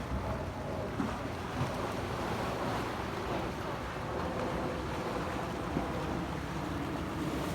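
Steady wind rumbling on the microphone over small waves lapping at a beach shoreline, with a few soft bumps.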